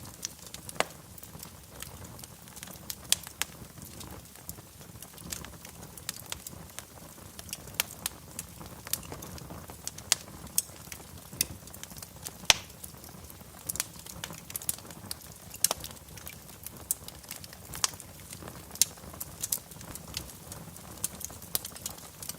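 Wood fire burning in a fireplace: irregular crackles and pops over a steady low rumble, with one louder pop about halfway through.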